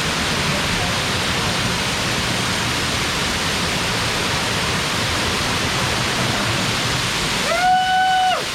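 Waterfall rushing, a steady roar of falling water. Near the end the rush dips and a person's voice holds one short call.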